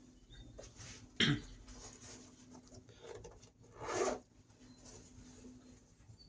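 A person coughs twice, a sharp cough about a second in and a longer, breathier one about four seconds in, over a steady low hum.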